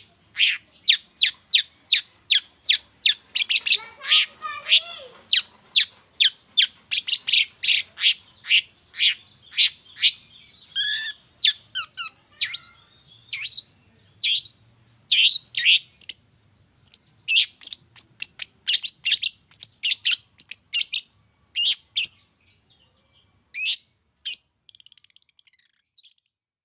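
Long-tailed shrike (cendet) calling in a fast series of short, sharp, harsh notes, a few a second, with a brief warbling run about four seconds in. The calls thin out and stop near the end.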